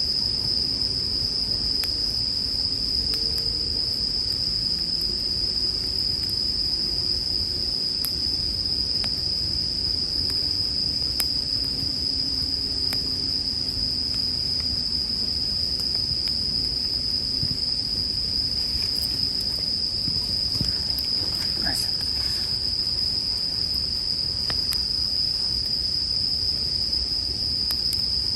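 Bell crickets (suzumushi) singing in a steady high ringing chorus, with occasional faint crackles from a campfire.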